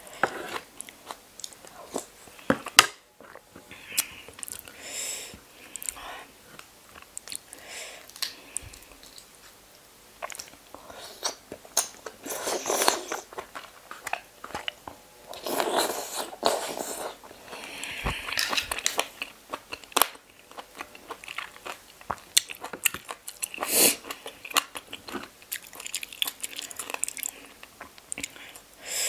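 Close-miked eating of razor clams: crunchy chewing and sucking the meat from the shells, with frequent sharp clicks as the thin shells are handled and pulled apart.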